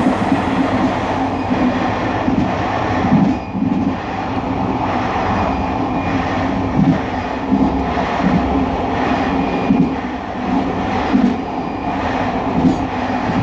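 Train rolling into a station: a steady rumble with repeated, unevenly spaced clacks of wheels over rail joints.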